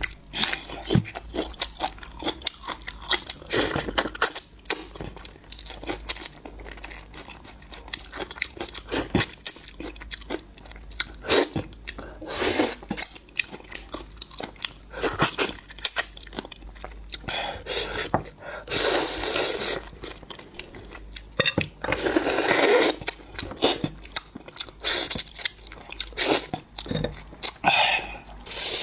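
Close-miked chewing and crunching, mukbang style: many short, sharp crunches and bites, broken by a few longer noisy stretches.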